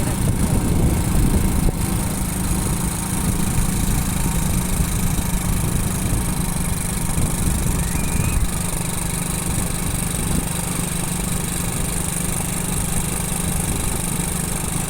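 Motorcycle engine running at a steady pitch while riding, over a low rumble of wind and road noise.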